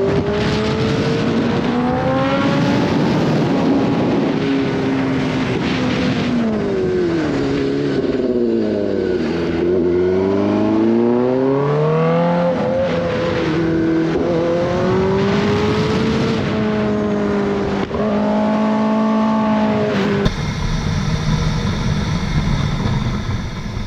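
Motorcycle engine running under way with wind and road noise, its pitch rising and falling with the throttle. It drops low about ten seconds in, then climbs again. The sound changes abruptly about twenty seconds in.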